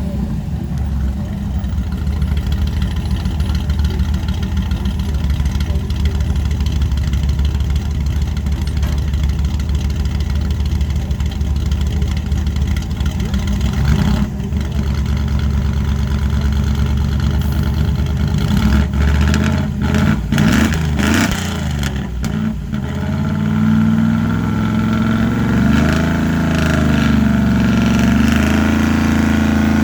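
1974 Chevrolet pickup's engine running hard and steady while pulling in a truck pull. The pitch shifts with some sharp knocks about two-thirds of the way in, and the engine revs up and down near the end.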